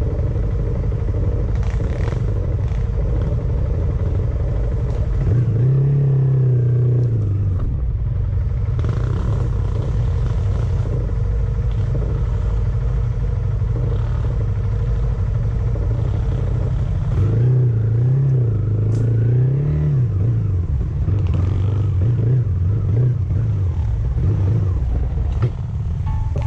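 A vehicle engine running under way, its pitch rising and falling several times as it speeds up and eases off, over a steady low rumble.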